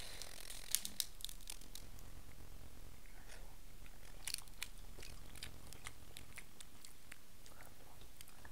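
Close-miked chewing and wet mouth clicks of someone eating king crab meat, with small crackles as crab shell is picked apart by hand. The sharp clicks come in a cluster about a second in and again just past four seconds.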